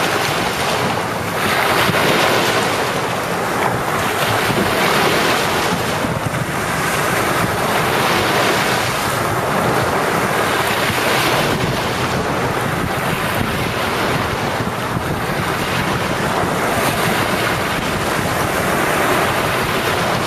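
Ocean waves breaking and washing onto a beach: a continuous rush of surf that swells and eases every few seconds, with wind on the microphone.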